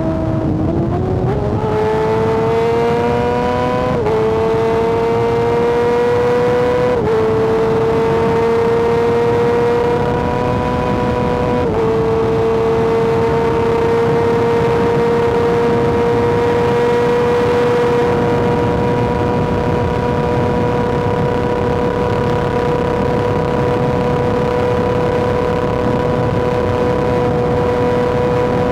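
Kawasaki ZX-6R inline-four sport bike engine pulling hard through the gears: its note climbs, dips sharply at each of three quick upshifts, then holds a steady high pitch at speed.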